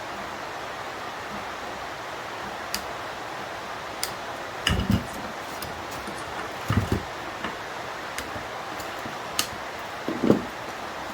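Scattered clicks and short knocks of small tools and metal or plastic parts being handled while an electronic unit is taken apart by hand, over a steady background hiss. The loudest knock comes near the end.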